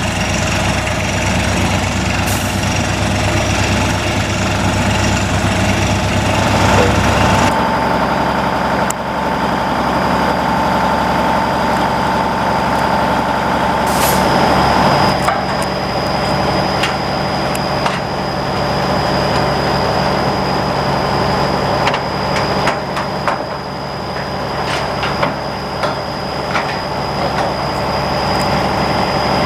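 Water-well drilling rig running steadily under load, its heavy engine hum shifting a little about seven seconds in. A steady whine joins from about seven to fifteen seconds, and a high thin whine holds from about fourteen seconds on, with scattered clicks and knocks from the drilling.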